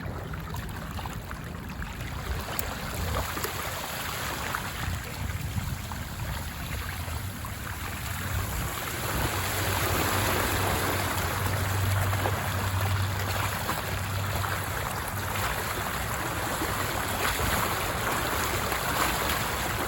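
Steady rushing of floodwater that grows louder about nine seconds in, with a low rumble under it for a few seconds near the middle.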